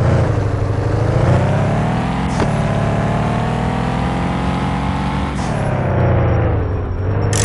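Fiat Doblo van engine pulling under acceleration, its note climbing and dropping back at gear changes about two and a half and five and a half seconds in.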